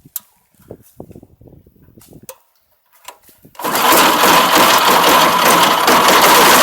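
A few light clicks, then about three and a half seconds in the MOROZ pumpkin harvesting combine with its 16 hp petrol engine starts abruptly and runs loudly and steadily, with a steady high whine over the machine noise.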